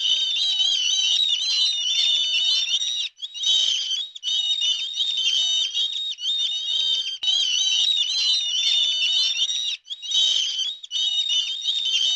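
Many small birds chirping and twittering together in a rapid, high-pitched, unbroken chatter, with brief gaps about three seconds in and near ten seconds.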